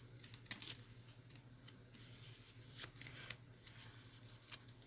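Faint handling of paper pieces: scattered light rustles and small ticks, over a low steady hum.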